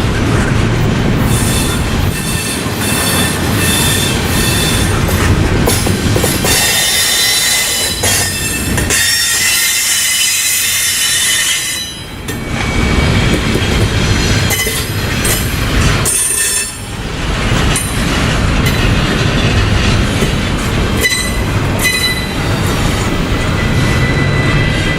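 Freight train cars rolling past at close range, with a steady rumble and wheels squealing in high, thin tones that come and go.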